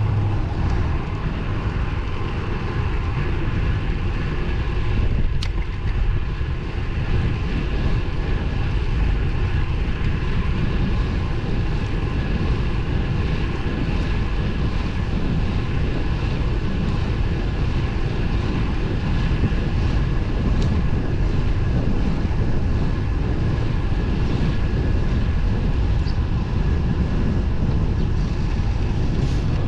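Steady rush of wind on the microphone and road-tyre noise from a road bike riding at speed, with a faint steady hum and a few single sharp clicks.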